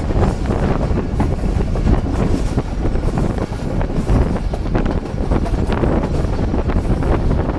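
Wind buffeting the microphone: a loud, low, uneven rush.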